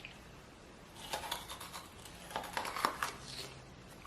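Faint rustling with a few light clicks and taps from handling food and utensils at a kitchen counter, starting about a second in and dying down near the end.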